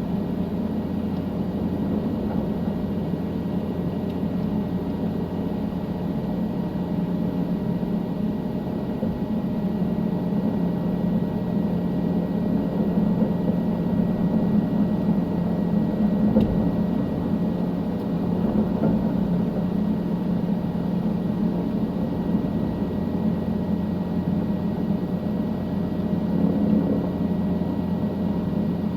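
Helicopter in flight: a steady drone of engine and rotor, heard from inside the cabin.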